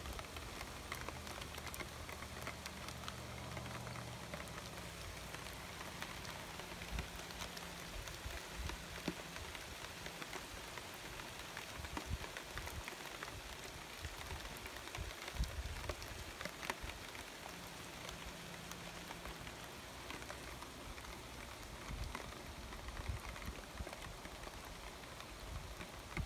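Steady rain falling on leaves and surfaces, with many small drop ticks. A low rumble lies under it in the first few seconds and again about two-thirds of the way through.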